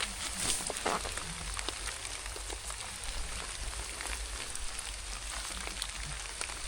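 Steady rain falling, a dense patter of drops with many small ticks, and a brief louder rustle about a second in.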